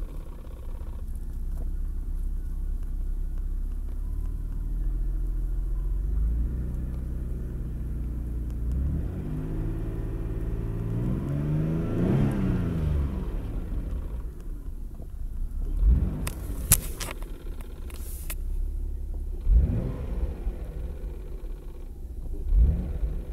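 The 1994 Mitsubishi 3000GT VR-4's twin-turbo V6 is revved up slowly to a peak and falls back to idle, then blipped quickly three times. Two sharp clicks come between the blips. The owner suspects the boost solenoid is behind a click that follows quick revs on a cold engine.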